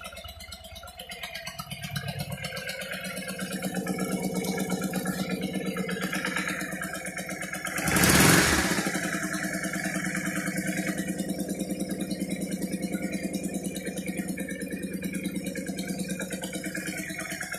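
Yamaha XV400 Virago's air-cooled V-twin engine running steadily, getting louder about two seconds in. A brief loud rush of noise comes just past the middle.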